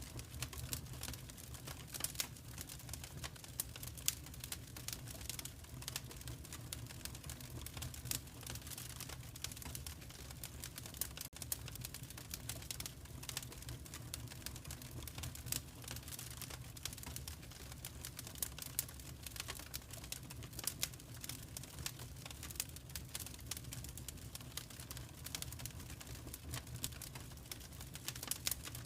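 Wood fire crackling: dense, irregular clicks and snaps of varying strength over a steady low rumble.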